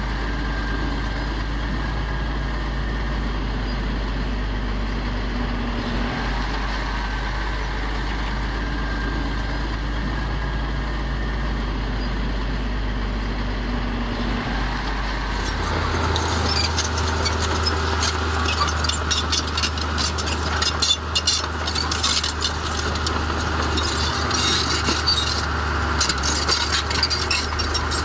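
Heavy diesel earth-moving machinery running steadily. About halfway through, the engine note changes and a dense clatter of rattling and knocking starts and carries on.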